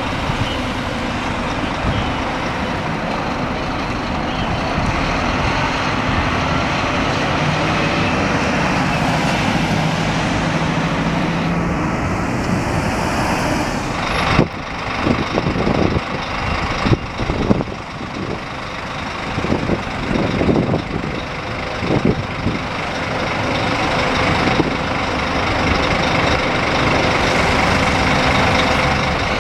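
Scania K360 bus engine running steadily. From about halfway there is a stretch of sharp, irregular bursts and dips, then the sound steadies again.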